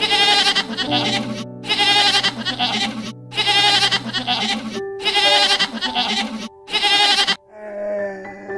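An animal bleating five times in a row, each call wavering and about a second or more long, over background music.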